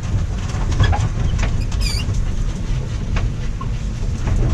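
A 1958 Mack B-21 fire truck rolling under tow in gear, its drivetrain turning over the unstarted Hall-Scott engine. It makes a steady low rumble with irregular rattles and clicks, and a brief squeak about two seconds in.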